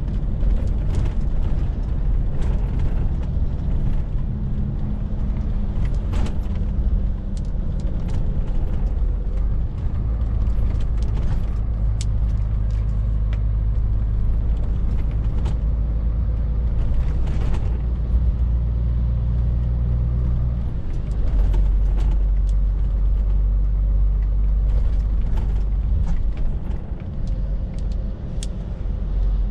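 Scania R450 lorry's engine running on the move, a steady low drone that steps in pitch a few times (about a quarter, a third and two-thirds of the way through), with scattered light clicks and rattles over it.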